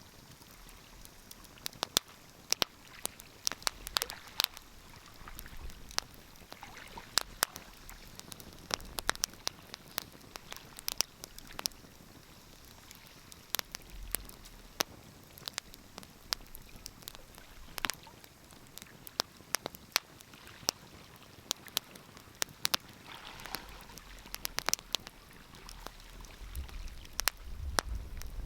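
Wood fire crackling in a fireplace: irregular sharp pops and snaps, several a second, over a soft hiss. A low rumble builds near the end.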